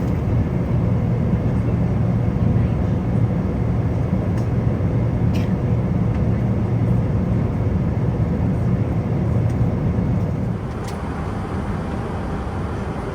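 Steady rumble of an Airbus A380 cabin at speed, the airflow and engine noise heard from an economy seat. About ten seconds in it steps down slightly quieter and changes tone.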